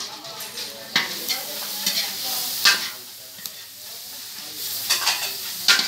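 Chicken pieces sizzling as they fry in a large steel wok. A metal ladle scrapes and knocks against the wok as it stirs, making about half a dozen sharp scrapes over the steady sizzle.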